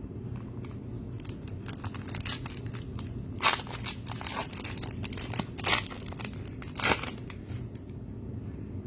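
Trading card pack being opened by hand: the plastic wrapper crinkles and tears in a run of short rustles, loudest about three and a half, five and a half and seven seconds in.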